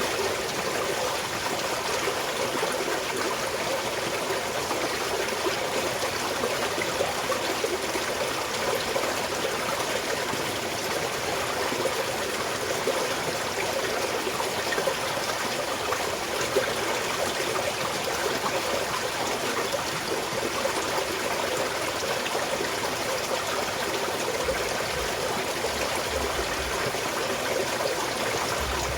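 Small mountain stream flowing and trickling over stones, a steady rush of water.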